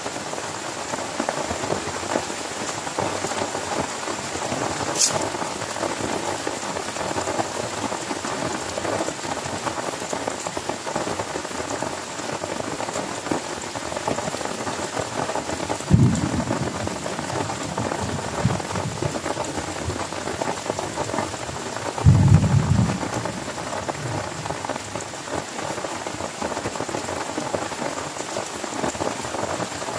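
Heavy rain falling steadily on a tent, a dense even patter. Two short, low thumps stand out above it, one about halfway through and a longer one about two-thirds of the way through.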